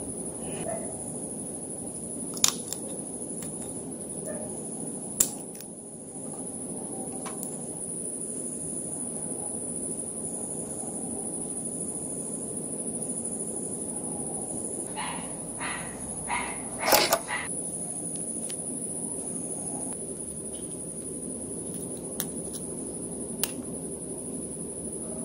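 A few sharp clicks and taps, with a short run of quick taps about two-thirds of the way through, over a steady low background noise and a faint high whine.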